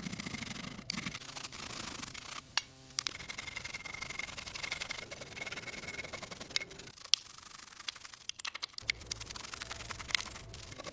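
Rubbing and scraping, with scattered light clicks.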